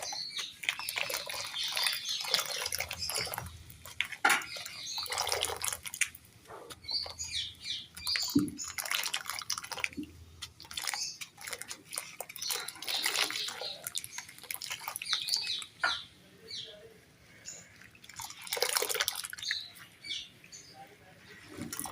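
Crunchy material crumbled wet into water. Irregular bursts of crackling and crunching come every second or two, with a few sharp clicks between them.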